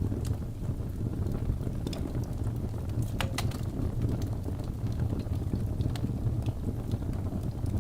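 Birch logs burning in a fireplace: a steady low rumble of the fire with scattered sharp crackles, and a quick cluster of pops about three seconds in.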